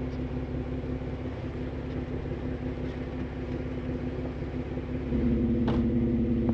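Vehicle engine idling steadily, a low even hum that gets louder about five seconds in, with a single sharp click shortly after.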